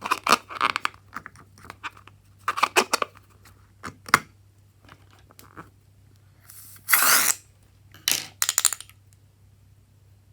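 Slime-making materials being handled: irregular short bursts of crackling, clicking and sticky squishing, with one louder rushing noise about seven seconds in.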